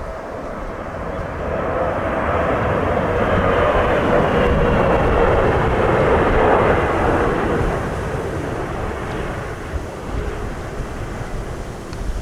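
Jet airliner coming in to land passes close by: engine whine and rumble swell to a peak about midway, then fade. Strong wind buffets the microphone throughout.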